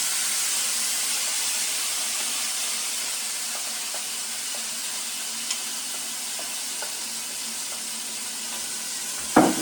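Mixed vegetables sizzling steadily in a frying pan, with a few faint ticks and one sharp knock near the end.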